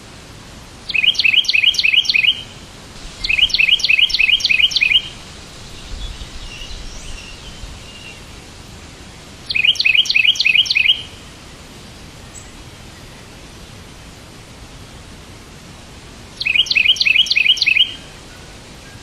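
A bird sings four short phrases of rapid repeated chirps, about five notes a second, over a steady background hiss.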